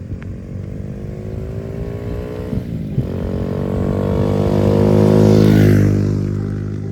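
A motor vehicle passing close by: its engine note rises as it approaches, is loudest a little past halfway, then drops in pitch as it goes past.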